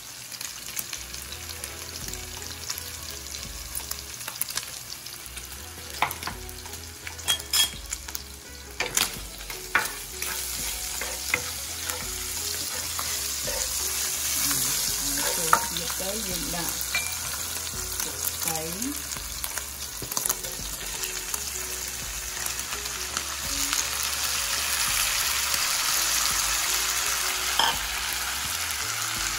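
Sliced meat sizzling and frying in a nonstick pan on a gas stove, stirred with a wooden spoon, with a few sharp knocks of utensils about a quarter of the way in. The sizzle grows louder in the second half as chopped mustard greens go into the hot pan.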